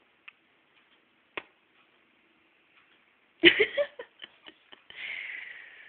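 Dachshund puppy snuffling and moving close to the microphone: a few soft clicks, a loud cluster of knocks and rustles about three and a half seconds in, then a breathy sniffing hiss near the end.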